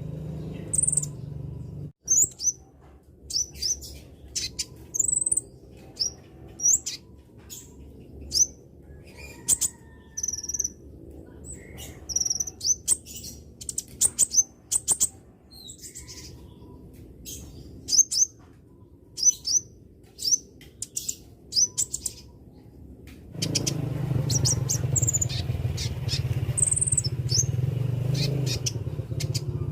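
Young konin bird chirping: short, high, sharp call notes repeated about once or twice a second. A low background rumble comes in about three-quarters of the way through.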